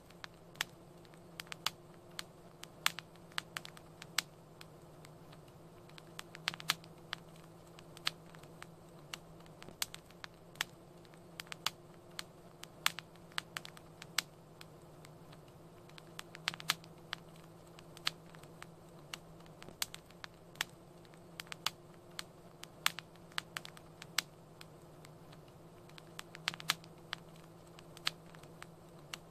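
Wood fire crackling: irregular sharp pops and snaps, several a second at times, over a low steady hiss.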